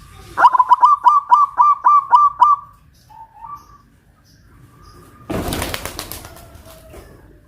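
Zebra dove (local Javanese perkutut) cooing: a quick run of about eight loud, clipped coos in the first few seconds. About five seconds in there is a brief rustling burst of noise.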